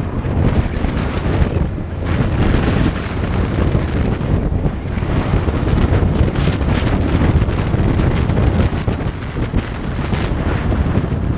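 Heavy wind buffeting the microphone on a moving motorcycle, a loud, unsteady rush that drowns out any engine sound.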